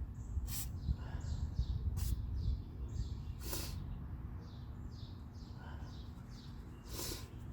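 Small birds chirping, many short falling chirps, over a steady low rumble. A few short hissing bursts come in, about half a second, two, three and a half and seven seconds in.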